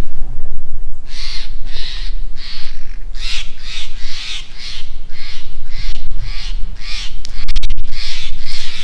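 A bird in the trees calling over and over with harsh, rasping caws, about two or three a second, starting about a second in.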